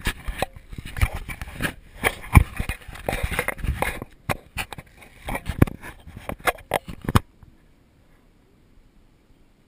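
A crash on dirt: a rapid jumble of thuds, knocks and scraping as the rider and camera tumble. It cuts off suddenly about seven seconds in, leaving only a faint hush.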